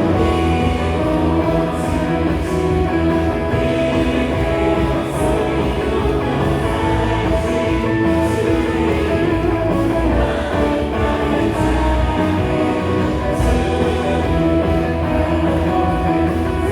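Live worship band playing an instrumental passage: electric guitar, bass guitar, keyboard and drum kit, with cymbal crashes every few seconds.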